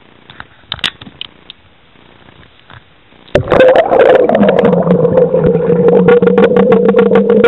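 A loud, steady motor drone that starts suddenly about three seconds in, holding two tones, one of which drops slightly in pitch soon after, with a dense crackling rattle over it. Before it, only a few faint clicks.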